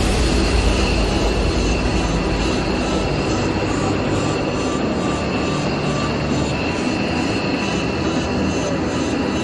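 Aircraft engines running, a steady loud rushing noise with a faint high steady whine in it.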